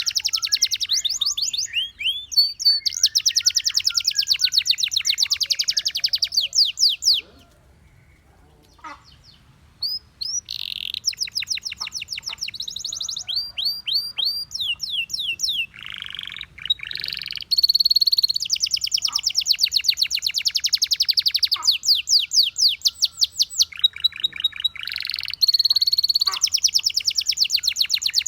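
Domestic canary singing in fast trilled rolls of rapidly repeated high notes. About seven seconds in, the song stops for roughly three seconds, then resumes with more rolls and trills.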